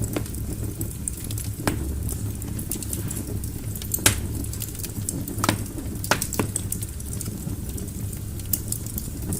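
Wood fire burning in a fireplace: a steady low rumble of flames with sharp crackles and pops from the burning logs every second or so, the loudest about four seconds in.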